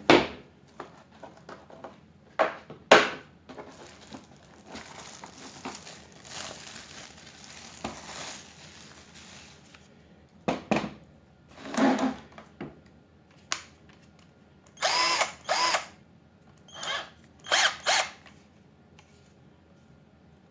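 Steinhaus PRO-CD144-2B 14.4 V cordless drill run in short trigger bursts, its motor whirring up and down; there are two quick runs about 15 seconds in and two more near the end. Before that come sharp clicks and knocks of the drill being handled.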